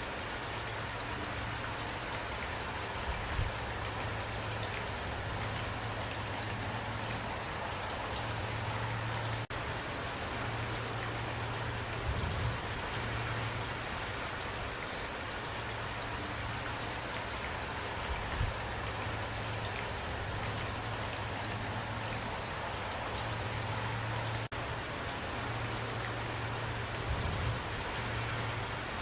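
Steady rain falling, an even hiss of drops with a few brief low thuds.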